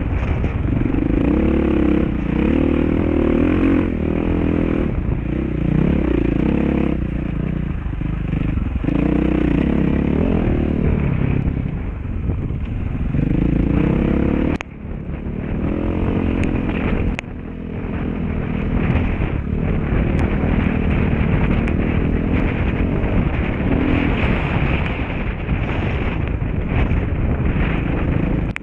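Dirt bike engine running under load on a trail, revving up and easing off again and again as the throttle is worked. There are two short sharp dips in the engine sound near the middle.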